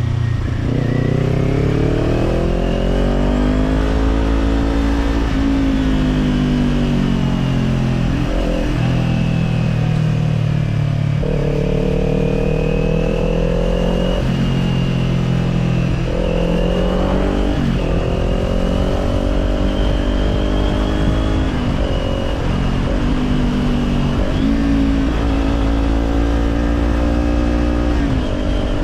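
Kawasaki Z400 parallel-twin engine running through an Orion Katya slip-on exhaust while riding. Its pitch rises and falls with the throttle and dips briefly several times.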